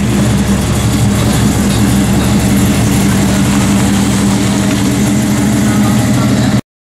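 Classic American muscle car engines running at low revs as the cars pull away, a steady, deep exhaust rumble. It cuts off suddenly near the end.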